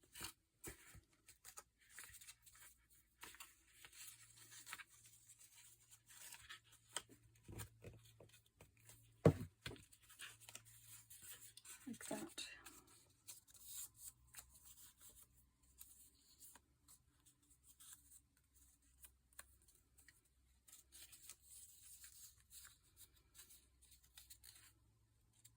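Faint rustling, scraping and small clicks of paper and card being handled while the inside of a handmade notebook cover is glued, with one louder knock about nine seconds in.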